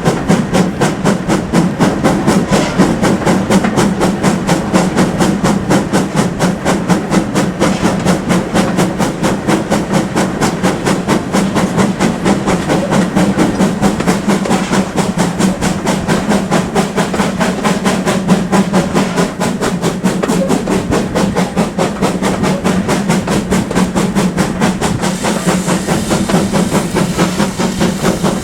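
GWR Manor-class steam locomotive working hard, its exhaust beats coming in a fast, even rhythm of several a second over a steady low drone.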